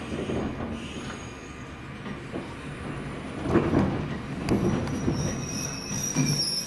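Jōmō Electric Railway electric train running slowly, heard from inside the car: a steady low rumble of wheels on rails with uneven surges. From about two thirds in, a high, thin, steady squeal joins it.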